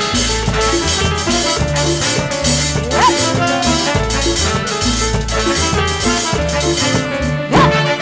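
Band playing an instrumental passage of a Latin dance song, with a drum kit and bass holding a steady beat under other instruments.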